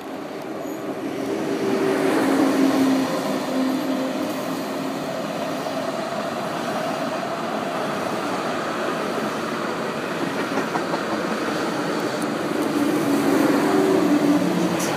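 Two coupled TGV high-speed trainsets passing on the track below: a steady rush of wheels on rail. A low hum swells about two seconds in and again near the end.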